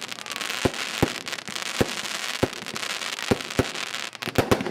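Fireworks display: sharp bangs from bursting fireworks at irregular intervals of about half a second to a second, over a constant crackle, with a quick run of several bangs near the end.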